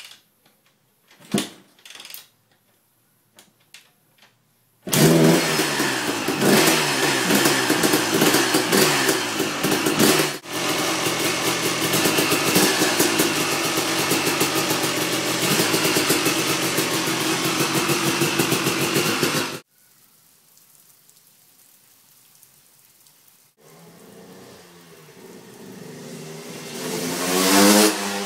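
1999 KTM 380 EXC single-cylinder two-stroke engine being kick-started: a few knocks, then the engine catches about five seconds in and runs loud and steady. Near the end it is ridden past, its note rising and growing louder.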